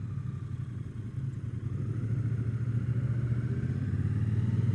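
Triumph Bonneville T120's parallel-twin engine running as the motorcycle is ridden, its note growing louder over the last two seconds or so.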